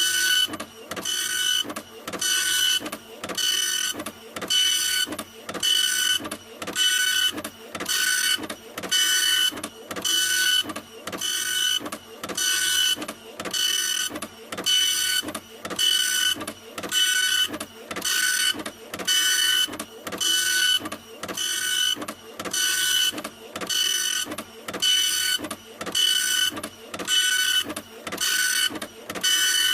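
Printer running continuously, its print head sweeping back and forth in an even rhythm of about one pass a second, each pass a whirring whine.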